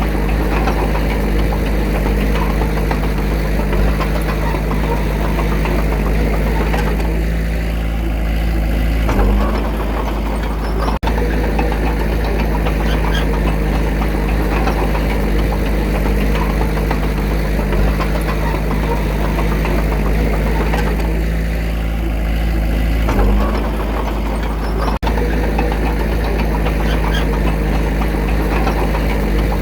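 Heavy machinery's diesel engine running steadily. Its pitch shifts briefly twice, about a third of the way in and again about three quarters through, and the sound drops out for an instant twice.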